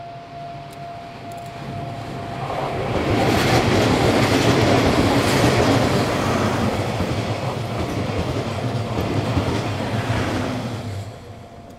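A passenger train of ED76 electric locomotives and 14-series blue sleeper coaches passes close by, its wheels clattering over the rail joints. The sound builds a couple of seconds in, is loudest as the coaches go by, and dies away near the end. A level-crossing warning signal rings with a steady tone before the train arrives and again once it has passed.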